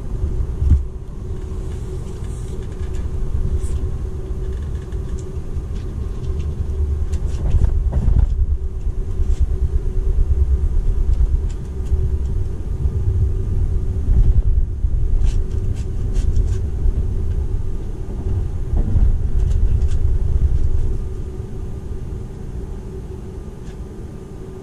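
Running noise inside the cabin of a Seibu 001 series Laview limited express train: a steady low rumble of the wheels on the rails with a faint steady hum and a few sharp clicks. It grows quieter near the end.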